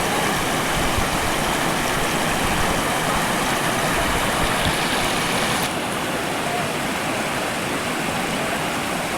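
Waterfall: water falling and rushing in a steady, loud roar. A little past halfway it turns abruptly duller and slightly quieter.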